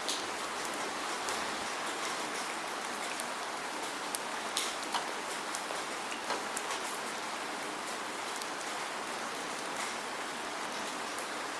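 Steady rain falling, an even hiss with scattered individual drops ticking on a surface close by. No thunder.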